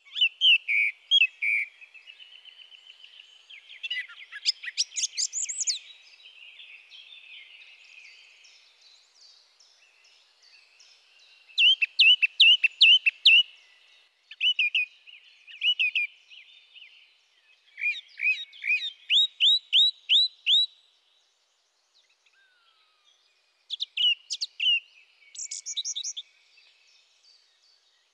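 Songbirds singing: bursts of quick, high chirps and trills, each a second or two long, coming again every few seconds.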